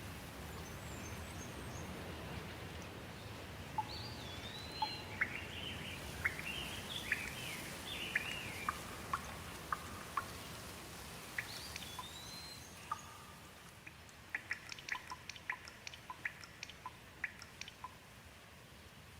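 Steady rain with birds calling over it: an arched whistle heard twice, about 4 and 12 seconds in, with a spell of chirping between them. Near the end comes a quick run of sharp ticks, like drips or short bird chips, while the rain eases slightly.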